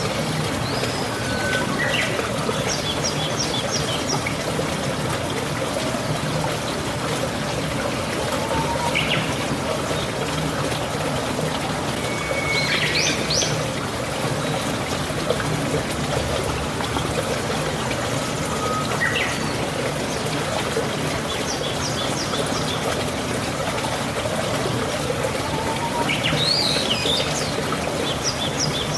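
Steady rain falling and water trickling, with a bird calling about five times in short high chirps and quick trills.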